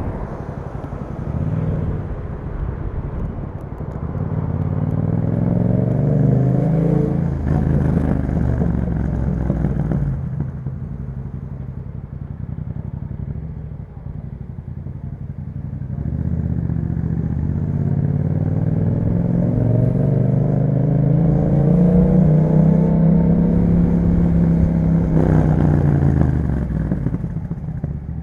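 Yamaha MT-07's parallel-twin engine through an Akrapovic exhaust, accelerating and shifting gear, then easing off for a quieter stretch about ten seconds in. It builds revs again from about sixteen seconds and falls away near the end.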